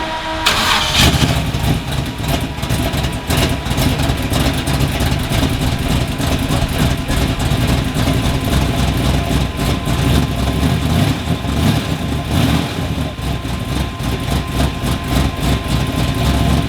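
Drift truck's engine running loud, starting abruptly about half a second in and carrying on with small rises and falls in level.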